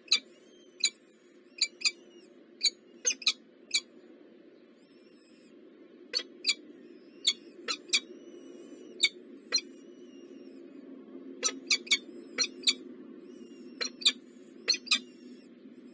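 Small birds at a nest chirping: short, sharp chips at irregular intervals, with a pause of about two seconds partway through. Fainter bird calls and a steady low hum run behind them.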